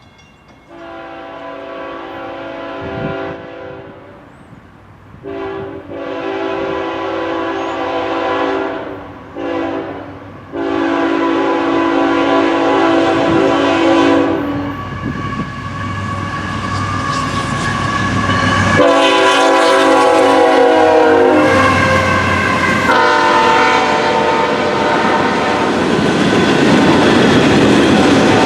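Locomotive air horn sounding several notes at once in the grade-crossing pattern, long, long, short, long, as the train approaches. A further blast comes at about 19 s as it reaches the camera, followed by the loud, rising rumble and clatter of the train rolling past.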